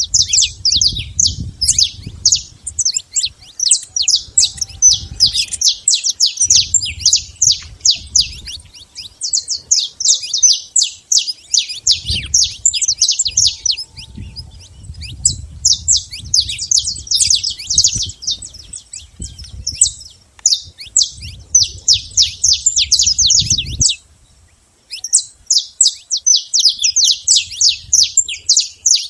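Saffron finch singing: long runs of rapid, high chirping notes, broken by a brief pause near the end.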